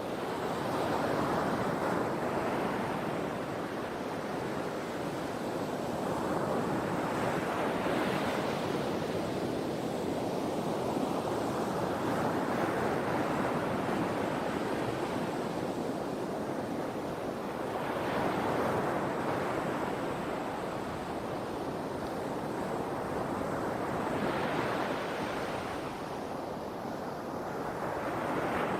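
Sea waves breaking and washing back. The surf swells and fades again every several seconds.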